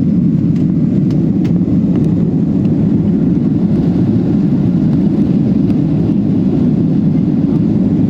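Jet airliner's engines and rushing air making a loud, steady low rumble that holds even throughout, with a few faint ticks in the first couple of seconds.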